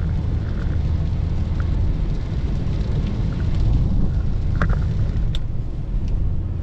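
Steady low rumble of road and tyre noise inside the cabin of a Lexus RX driving on the highway, with a couple of faint ticks a little past halfway.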